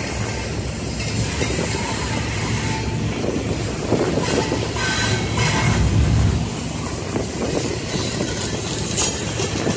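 Double-stack intermodal freight train rolling past, its steel wheels rumbling and clacking on the rails. It grows a little louder for a couple of seconds around the middle.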